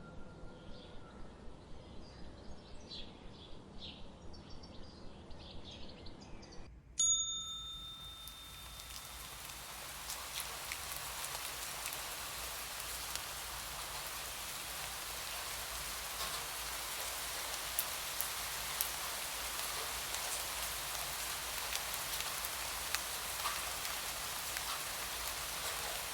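Birds chirping in a repeated rhythm, then a single bell chime about seven seconds in that rings and fades over a couple of seconds. Steady rain then takes over, with scattered drops ticking through it.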